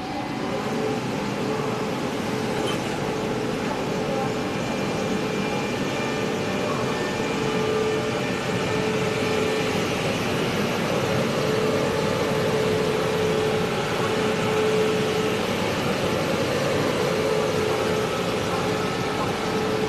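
A train running at the platform: a steady rumble with a held mid-pitched hum and fainter higher tones over it, a little louder after the first second.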